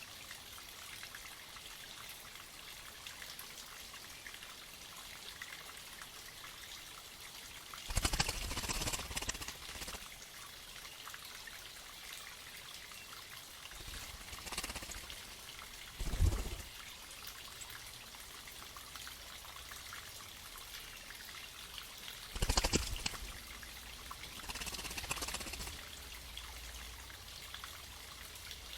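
Spring water trickling steadily, broken by bursts of splashing as cardinals bathe: a loud one about 8 seconds in and another a little past 22 seconds, with smaller splashes between them. A short low thump comes about 16 seconds in.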